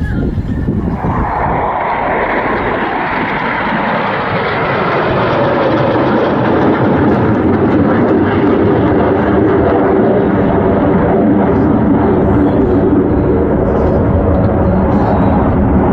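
Fixed-wing aircraft flying past, its engine noise loud and dense. The pitch falls over the first several seconds while the sound grows louder, then it holds steady.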